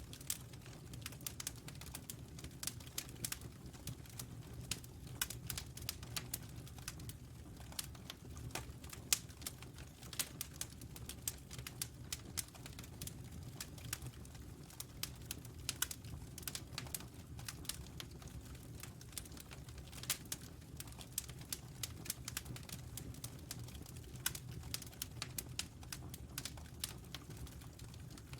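Wood fire crackling: a steady stream of irregular small pops and snaps over a low, steady rumble.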